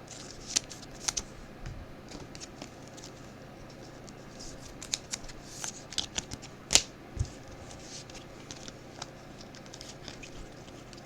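Football trading cards being handled and sorted by hand: scattered sharp clicks, taps and short rustles of cards and wrappers, with one louder snap about seven seconds in.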